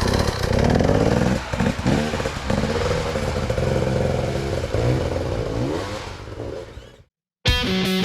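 Off-road dirt bike engine revving, its note rising and falling repeatedly with rattling and clatter, then fading out. Near the end there is a brief silence, then guitar music starts.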